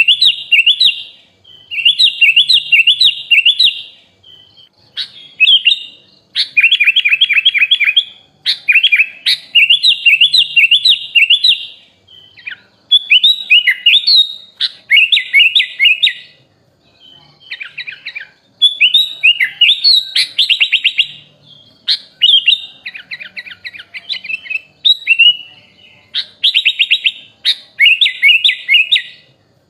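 Sooty-headed bulbul (kutilang) singing a varied song packed with learned phrases from other birds: a run of rapid trilled and chattering phrases, each lasting a second or two, with short pauses between them.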